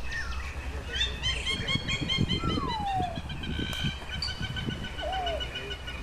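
Wild birds calling: a rapid run of repeated high chirping notes that goes on for several seconds, with a separate falling whistle about two seconds in and a short one near the end.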